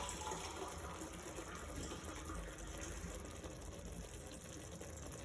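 Water being poured from a glass into a pot of chicken curry gravy, a steady pour.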